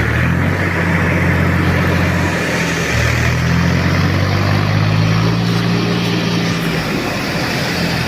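Tractor engine running steadily, with a short change in its note about two and a half seconds in.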